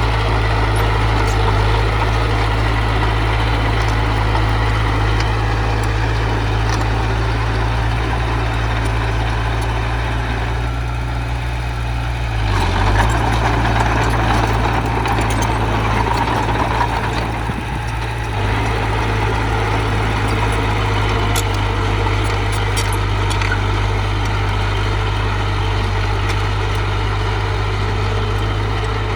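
Diesel engine of heavy earthmoving machinery running steadily. Around the middle there is a louder, rougher stretch lasting several seconds.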